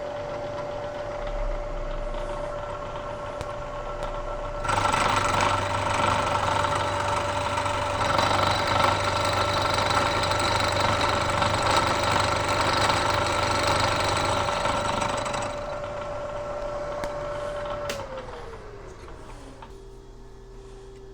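Bridgeport milling machine spindle running with an end mill taking a 50-thousandths-deep cut, loud and dense for about ten seconds in the middle. Near the end the spindle is switched off and its hum falls in pitch as it winds down, leaving a lower steady hum.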